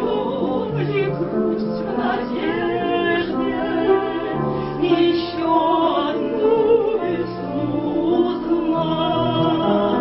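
Operatic singing with accompaniment: held notes with vibrato over a steady lower line of accompanying notes.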